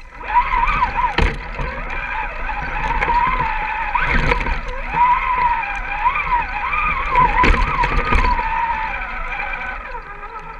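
Electric motor and drivetrain of an Axial SCX10 RC rock crawler whining, the pitch rising and falling as the throttle is worked, with several knocks as the truck bumps over the terrain.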